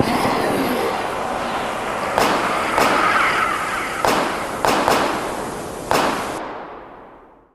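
Six sharp bangs, sudden and spaced unevenly, over a steady rushing city-ambience bed. The whole mix fades out near the end.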